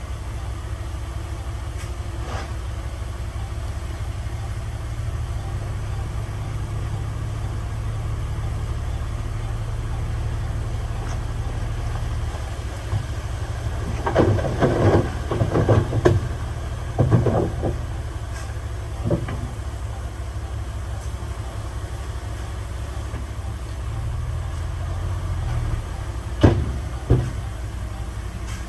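Heavy earthmoving machine's diesel engine running steadily, with a cluster of loud knocks and scrapes about halfway through and two more sharp knocks near the end.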